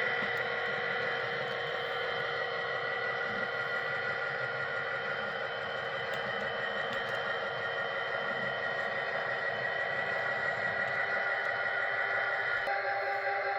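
HO scale model diesel locomotive's sound decoder playing its engine sound through the locomotive's small speaker, a steady pitched drone with a few faint clicks.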